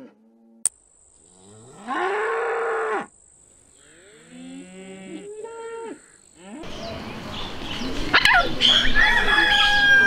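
Cattle mooing: one loud, long moo, then a few quieter, shorter calls. About two-thirds of the way through, the sound changes to a steady hiss with scattered high-pitched tones.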